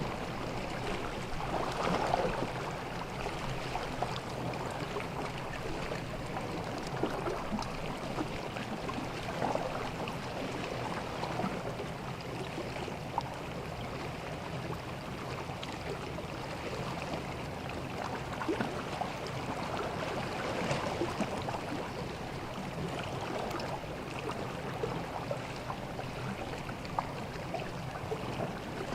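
Gentle sea waves washing onto a beach, a steady wash that swells now and then, with small crackling ticks of water running over the shore.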